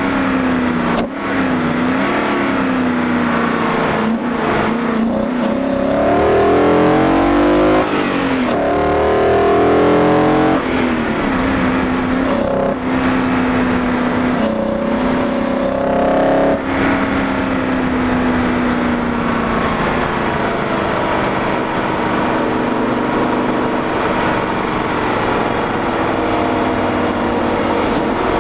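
Swapped-in BMW M60 V8 in a BMW E30, heard at its intake, pulling hard through several gears with short breaks at each shift in the first half, then running at steadier, slowly easing revs.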